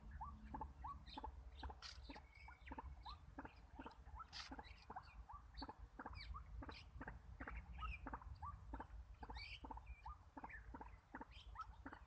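White-breasted waterhen calling: a long, steady run of short, clipped notes repeated about three times a second, with scattered higher chirps among them.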